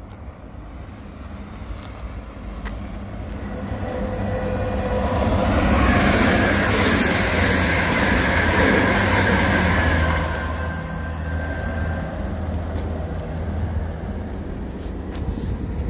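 A passenger train passing close by on the main line. Its noise builds over the first few seconds, is loudest around the middle with a few steady whining tones over the rumble, then eases off as it goes by.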